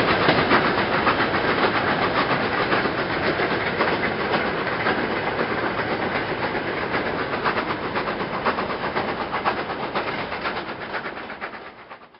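Goods wagons and a brake van rolling past on the rails, their wheels clicking rhythmically over the rail joints. The sound slowly grows quieter as the train draws away, then dies out sharply near the end.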